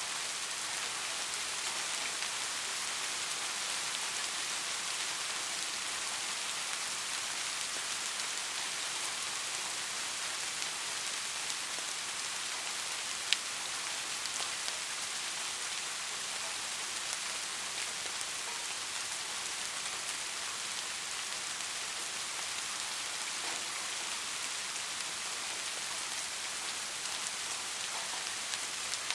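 Steady rain falling, an even hiss of drops on surfaces, with a single sharp drip-like tick about halfway through.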